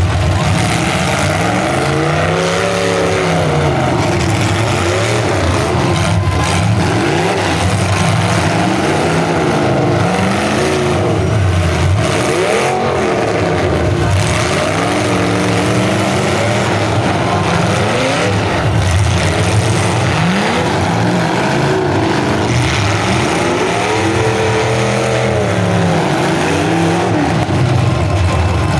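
Several full-size demolition derby cars' engines revving up and down together, with a few sharp knocks among them.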